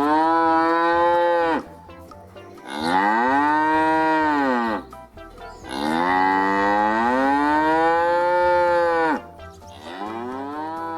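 Cow mooing: four long drawn-out moos, each rising at the start and dropping off at the end, the third the longest and the last quieter.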